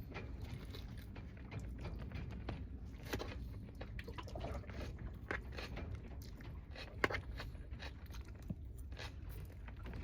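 A person eating: chewing and crunching with scattered sharp little clicks, over a low steady hum.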